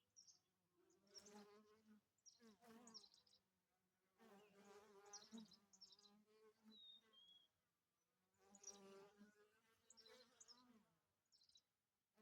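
Honeybees buzzing in flight, several bees passing close by one after another, each pass swelling and fading over a second or two.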